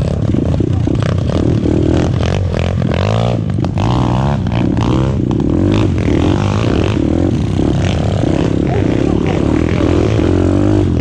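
Orion 125cc pit bike's single-cylinder four-stroke engine running hard, its revs rising and falling over and over as it is ridden over rough dirt, with rattling knocks from the bike over the bumps.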